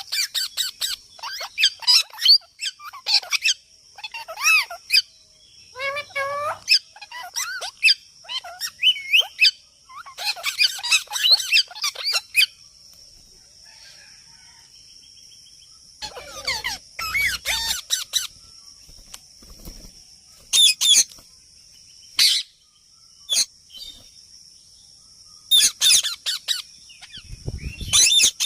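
A parrot calling in bursts of quick chirps and squawks, busy for the first dozen seconds, then silent for a few seconds before calling again in shorter, scattered bursts. A faint steady high-pitched hiss runs underneath.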